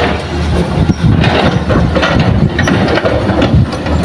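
Heavy earthmoving machine's diesel engine running steadily with a deep hum, with scattered knocks over it.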